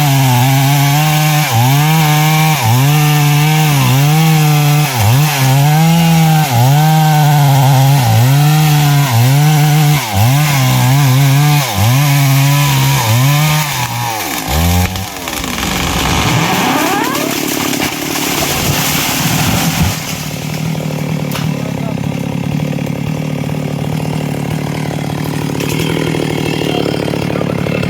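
Stihl MS 382 two-stroke chainsaw with a 24-inch bar cutting wood at high revs, its pitch dipping and recovering about once a second. About halfway through the revs fall away, and the saw settles to a steady, quieter idle.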